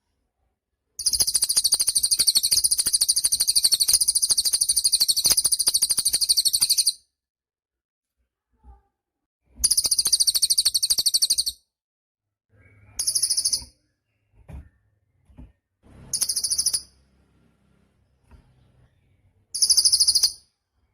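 Cililin (a small Indonesian songbird) singing very high-pitched, fast buzzy trills: one long trill of about six seconds, a shorter one of about two seconds, then three short bursts with pauses between.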